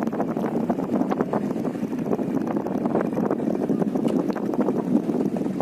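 Strong wind buffeting the microphone with an unbroken crackling rumble, over a continuous low noise.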